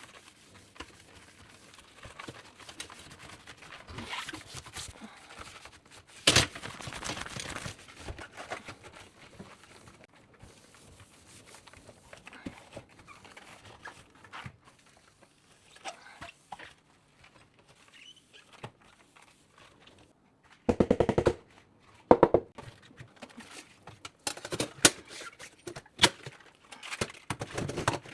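Household cleaning handling noises: soft rustling and shuffling, a sharp knock about six seconds in, two short rattling bursts close together past the middle, then a run of light clicks and taps.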